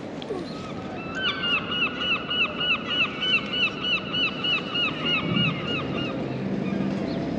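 A bird calling a rapid, even run of honking calls, about three to four a second, which starts about a second in and stops about a second before the end.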